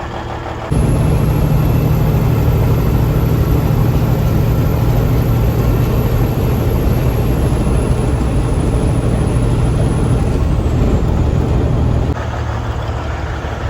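Heavy semi-truck diesel engine, a Cummins N14 in a Freightliner FLD, running with a steady low rumble that starts suddenly and cuts off suddenly, with a faint high whine above it.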